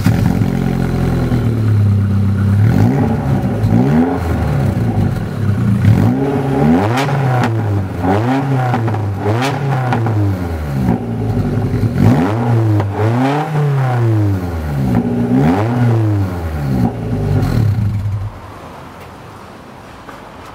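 MG TF 135's 1.8-litre K-series four-cylinder engine running with no exhaust fitted: it idles loudly, then is revved in about eight or nine short blips, each a rise and fall in pitch, and is shut off about 18 seconds in.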